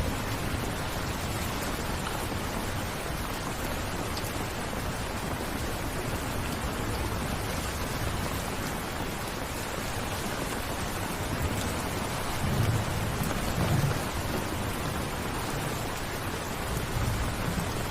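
Steady rain, an even hiss, with low rumbles of distant thunder swelling about two-thirds of the way in and again faintly near the end.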